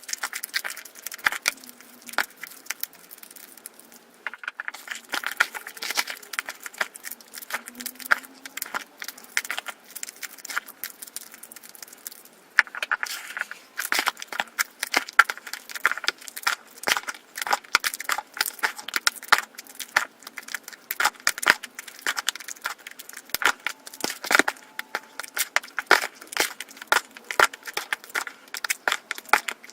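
Soapy sponge being squeezed and worked, giving a dense, fast crackling and crinkling of soap foam that comes in shifting clusters and grows denser about halfway through.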